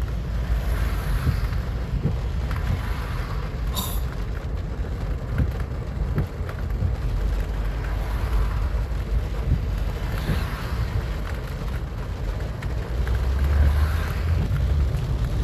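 Car driving, a steady low road-and-engine rumble heard from inside the cabin, with a brief click about four seconds in.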